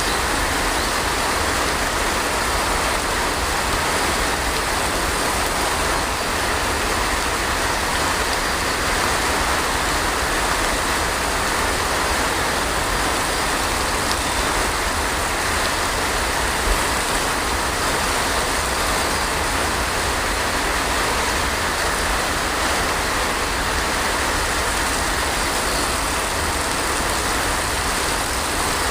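Heavy rain falling steadily, a dense even hiss over a low rumble.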